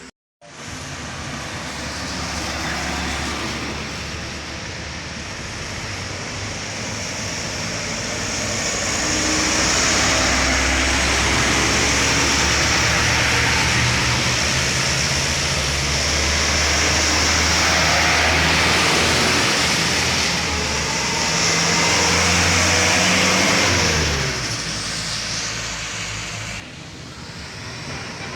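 Truck engine working hard at full throttle, growing louder as it nears and staying loud for a long stretch, then falling in pitch about three-quarters of the way through as it passes.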